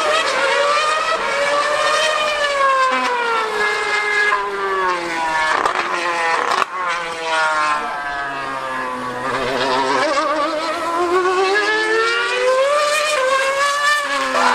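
2013 Formula One car's 2.4-litre V8 running at high revs with a high-pitched scream, its pitch repeatedly climbing and dropping through the gears as it laps.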